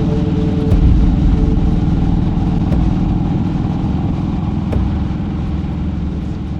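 Harley-Davidson V-twin motorcycle engine running with a steady, loud low rumble of rapid firing pulses, swelling slightly about a second in.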